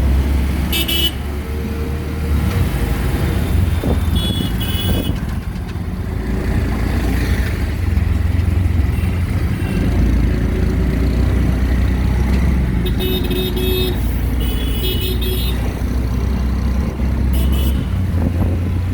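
Riding in an auto-rickshaw through city traffic: a steady low engine and road rumble, with vehicle horns honking in short blasts, once near the start, again about five seconds in, and repeatedly from about 12 to 18 seconds.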